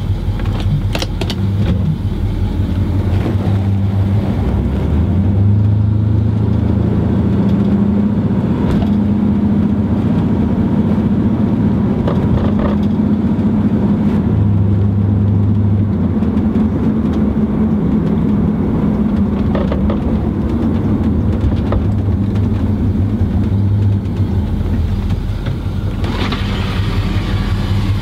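1981 Chevrolet Camaro Z28's V8 engine running, heard from inside the cabin while driving, its note rising and falling with engine speed. A brief rush of higher noise joins it near the end.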